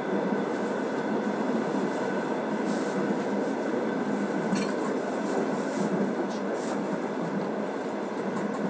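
Passenger train in motion, heard from inside the carriage: a steady rumbling running noise of wheels on rails and the moving coach.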